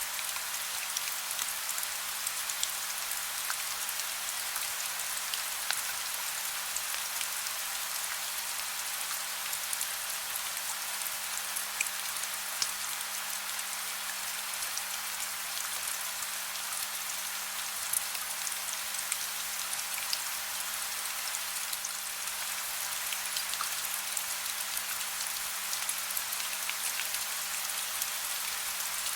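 Steady soft rain: an even high hiss with scattered individual drops ticking through it.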